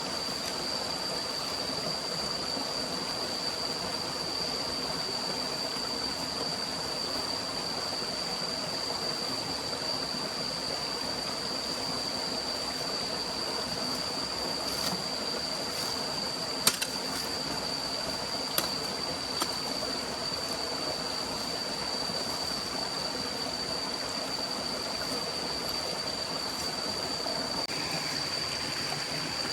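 Stream water running steadily, with a constant high-pitched whine over it. Three sharp clicks come just past the middle.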